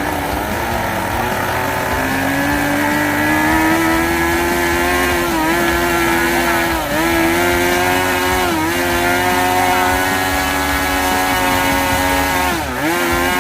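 Small fuel engine of a model airplane running at high revs, a steady high-pitched buzz that sags briefly in pitch four times. The engine is being tuned on the fuel mixture.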